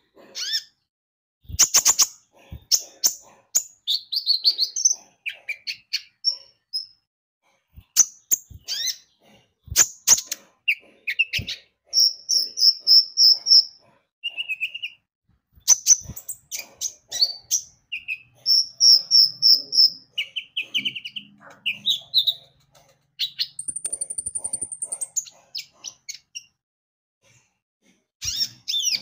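Kolibri ninja (konin) sunbird singing non-stop in a rapid jumble of high chirps, sharp clicks and buzzy trills, with a thin high whistle near the end.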